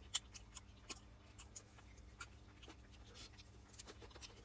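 Faint eating sounds of someone chewing fried chicken: a string of small irregular clicks and crunches, several a second, from the mouth.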